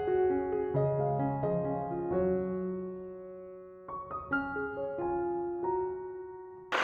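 Soft background piano music, single notes and chords struck and left to fade. At the very end it cuts abruptly to a steady rushing noise.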